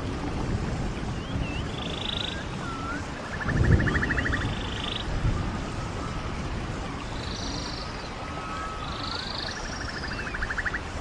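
Stream water running steadily, with a surge about four seconds in. Over it a bird calls twice: each time short swooping notes and then a buzzy trill.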